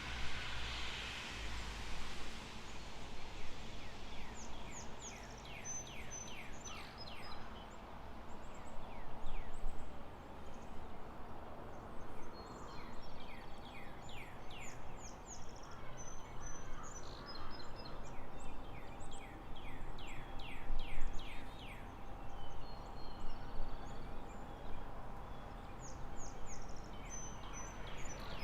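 Outdoor ambience of birds chirping and trilling in quick runs of short high notes, over a steady background noise.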